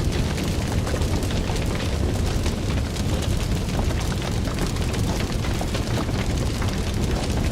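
Fire burning with a steady low roar and frequent sharp crackles and pops throughout.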